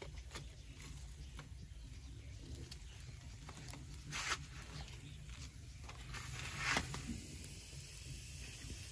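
Newly lit wood fire of dry citrus branches crackling, with scattered sharp pops and two louder hissing flares about four and seven seconds in, over a low steady rumble.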